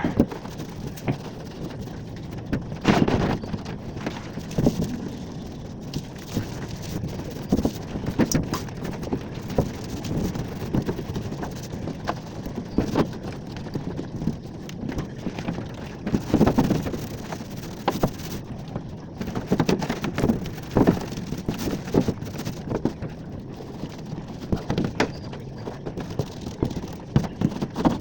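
Paint being brushed onto a metal roof: irregular scratchy brush strokes and scraping on the roof sheets, with occasional knocks.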